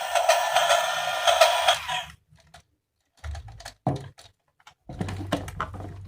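Battery-powered toy train's small motor running with a steady, pulsing whir that cuts off about two seconds in. After it, a series of light plastic clicks and knocks as the toy is handled.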